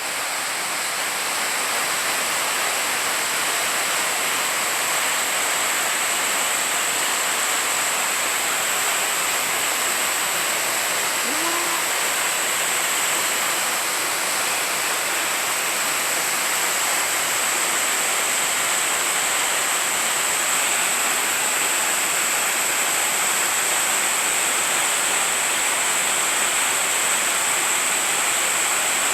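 Waterfall pouring into a pool: a steady rush of falling water, with a thin, steady high hiss over it.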